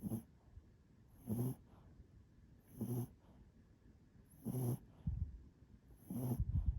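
Black Pomeranian snoring in its sleep: short pitched snores repeating about every one and a half seconds, five in all. A low rumble comes just after the fourth snore and again, louder, near the end.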